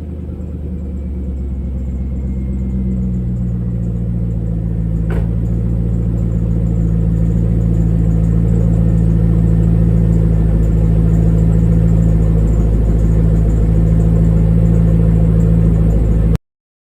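C5 Corvette small-block V8 idling steadily through a Borla S-Type cat-back exhaust with stock headers and mid pipe, a deep, even rumble after a cold start. A single sharp click about five seconds in; the sound cuts off abruptly near the end.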